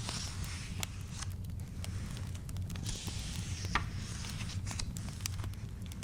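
Wood fire crackling with scattered sharp pops over a low steady rumble, while the paper pages of a book are turned with a soft rustling swish, once near the start and again about three seconds in.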